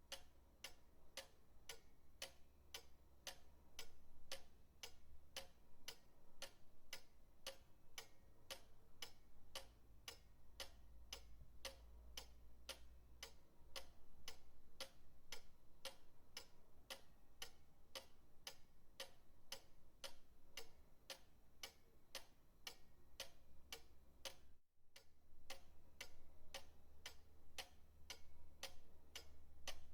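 Pendulum clock ticking steadily, about two ticks a second, with a faint low hum underneath; the sound drops out for a split second about 25 seconds in.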